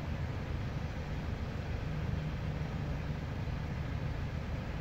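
Steady low rumble of idling road vehicles at a closed level crossing, even and unbroken, with no crossing alarm or train passing audible.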